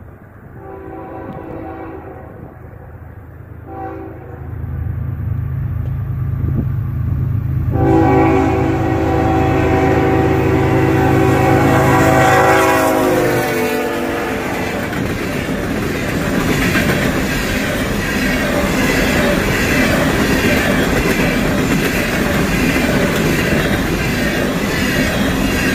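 Union Pacific GE ES44AC diesel locomotive's multi-note air horn sounding for the grade crossing: a long blast, a short one, then a long blast held about six seconds that sags in pitch as the locomotive passes, over the rumble of its diesel engine. Then the empty coal cars roll by with a steady rattle and clickety-clack of wheels over the rail joints.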